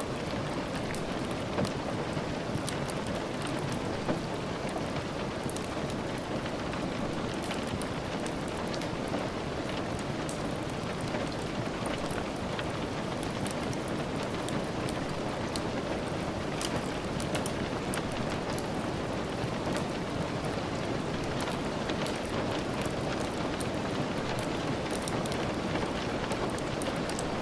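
Steady rain with a crackling wood fire: an even rain hiss under scattered sharp pops and ticks.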